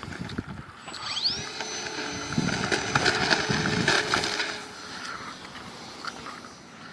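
Dynam Cessna 182 RC plane's electric motor whining: the pitch rises about a second in, holds steady and high for a few seconds, then fades out.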